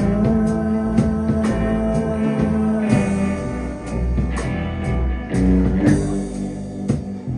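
Live rock band playing an instrumental passage: guitars holding chords over bass and a drum beat, with no singing.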